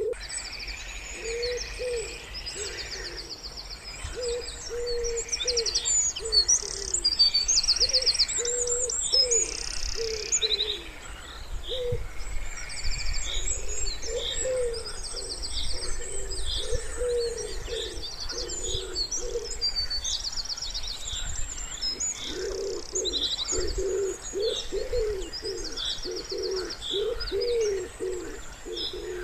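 Wood pigeon cooing in repeated phrases, with several songbirds singing rapid high trills and chirps over it.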